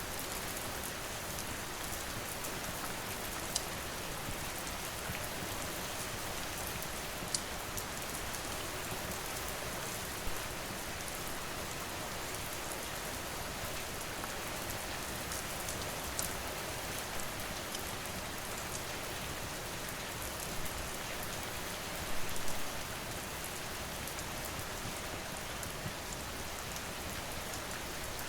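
Steady rain falling, with a sharp crackle from a wood fire every few seconds and a brief flurry of pops about three-quarters of the way through.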